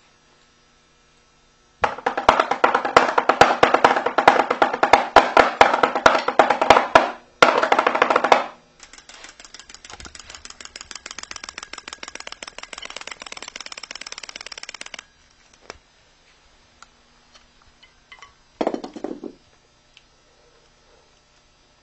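Rapid drumming in fast rolls: loud for about five seconds, a short burst, then a quieter fast roll for about six seconds, ending in scattered taps and one short burst near the end.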